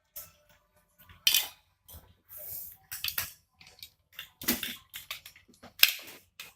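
Plastic Lego bricks clicking and clattering as they are handled and pressed together: a run of sharp, irregular clicks with short gaps, one loud one about a second in and another near the end.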